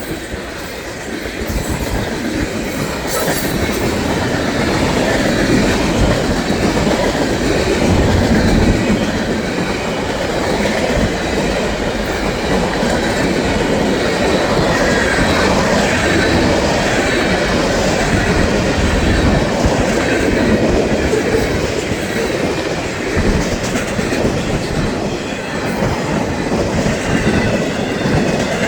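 Long freight train's cars rolling past at close range, the wheels clattering over the rail joints in a steady loud rumble. The sound builds over the first few seconds.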